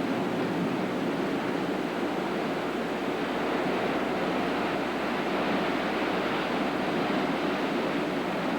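Storm surf from Hurricane Iniki's heavy waves and wind, a steady continuous rush of water with wind buffeting the microphone.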